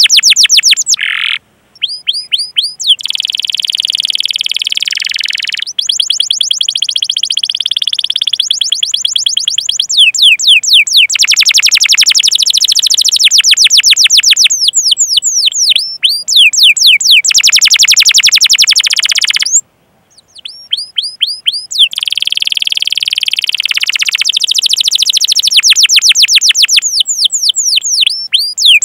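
Domestic canary singing a long, loud song of fast repeated chirps and rolling trills, the 'cuit cuit' and 'ngerol' phrases of a vigorous singer. The song breaks off briefly just over a second in and again about two-thirds of the way through.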